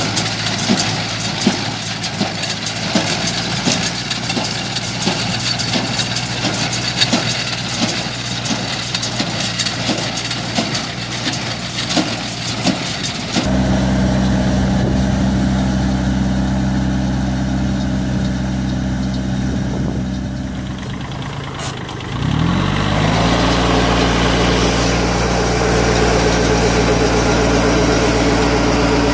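Tractor engine driving a hay baler, with a regular knocking of the baler's strokes over the engine note. Partway through it changes abruptly to a steadier engine drone, which speeds up with a rising pitch and then holds.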